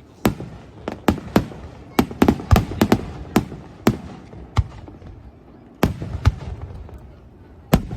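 Aerial fireworks shells bursting in a rapid string of sharp bangs, some echoing, closely spaced for the first few seconds and then more widely spaced with short gaps.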